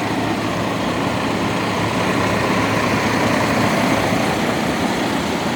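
Diesel engine of a 2014 Freightliner Cascadia semi truck running steadily.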